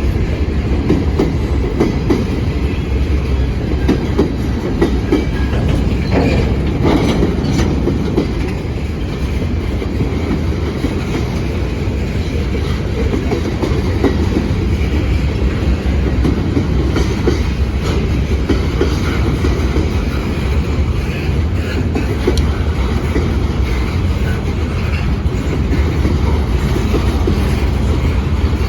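Norfolk Southern freight train rolling past, a steady loud rumble with the wheels clicking over the rail joints.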